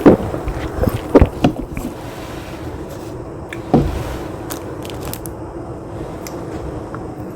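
Someone eating mushroom and cheese pizza close to the microphone. There are a few sharp bites or crunches at the start, around a second in and just before four seconds in, with chewing between them over a steady background hiss.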